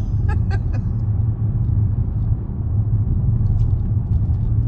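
Steady low rumble of road and engine noise inside the cabin of a moving Range Rover, with a few light ticks just after the start.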